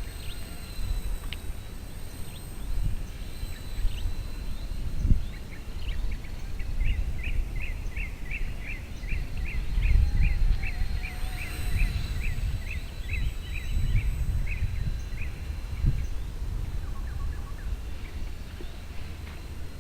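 Wind buffeting the camera microphone in uneven low gusts. For about eight seconds in the middle, a bird repeats a short chirp two or three times a second.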